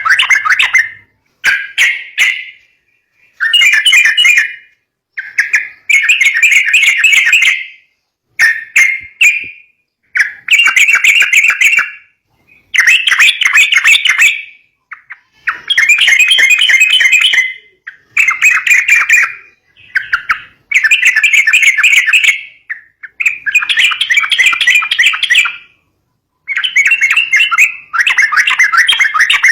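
Yellow-vented bulbul (trucukan) calling in loud, fast chattering phrases of one to two seconds each, repeated with short pauses: the aggressive 'fighter' call played as a lure for young trucuk birds.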